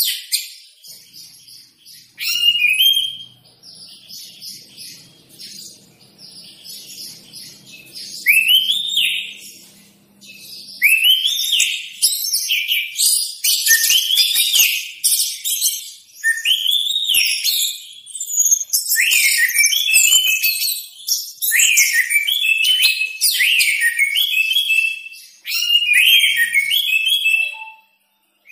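Orange-headed thrush singing a fast, varied song of arched whistled phrases and high trills, growing louder and busier about halfway through.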